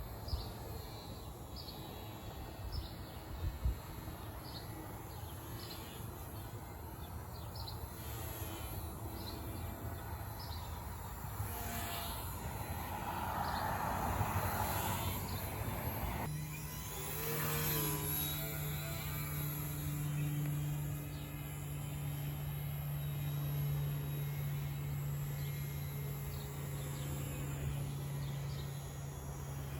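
A small electric RC airplane flying, its motor and propeller whine sweeping up and down in pitch as it passes, with birds chirping in the first half. A steady low hum starts suddenly about halfway through and keeps going.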